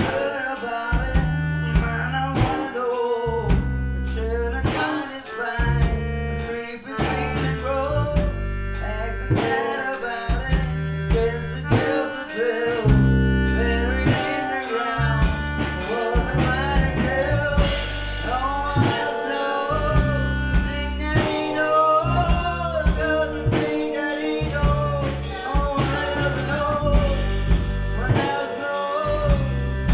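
Live gypsy rock band playing a song: drums keep a steady beat under bass and guitar, with a singing voice carrying the melody.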